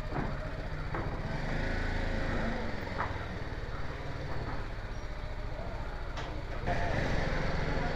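BMW G 310 GS motorcycle's single-cylinder engine running at low speed with a steady low pulse, a few faint clicks over it. It gets louder near the end.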